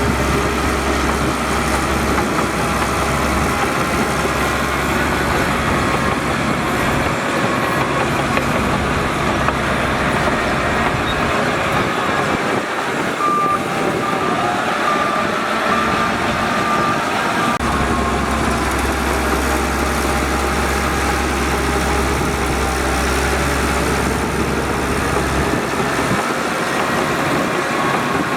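Heavy diesel earthmoving machinery, a Shantui DH17C2 bulldozer with dump trucks, running steadily at work. A deep rumble fades out for stretches and comes back, and a few short high beeps sound near the middle.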